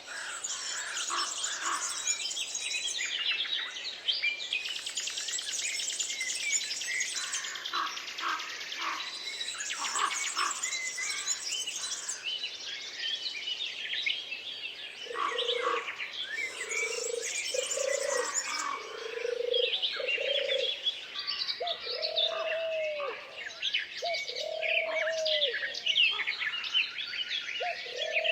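Forest birdsong: many birds chirping and trilling at once. From about halfway through, a low cooing note repeats roughly every second and a half beneath the chorus.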